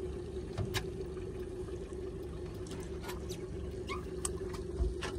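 Boat motor running steadily at one constant pitch, with water sloshing against the hull and a few sharp clicks and knocks.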